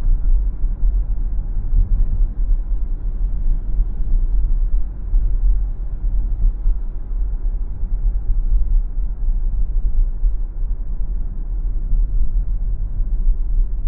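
Steady low rumble of a car driving along a city street: tyre and road noise with the car's running gear, without let-up.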